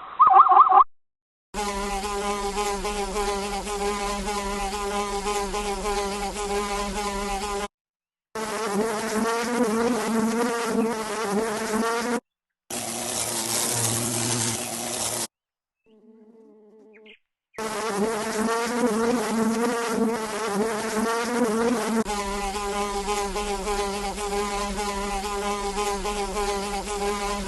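An insect's wingbeat buzz: a steady low hum that wavers in pitch now and then, in several stretches broken by brief silences.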